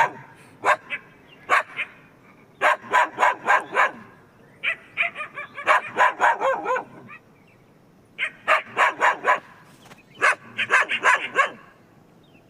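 A dog barking repeatedly in bouts of several quick barks, with short pauses between the bouts.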